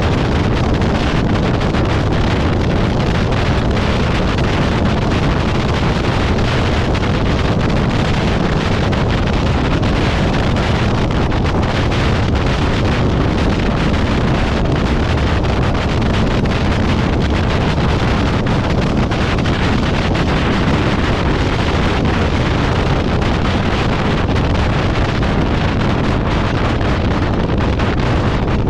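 Steady, loud wind noise on the microphone, an even rushing rumble heaviest in the low end, with no breaks or changes.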